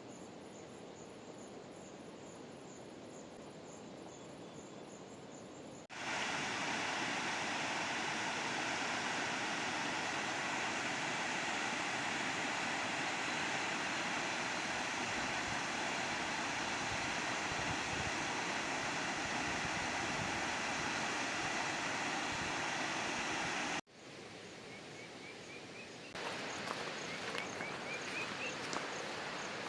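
Insects trilling in fast, even pulses over quiet forest ambience, then about six seconds in a loud, steady rush of falling water from a waterfall that cuts off abruptly near the end. After it come insects again and short rising chirps.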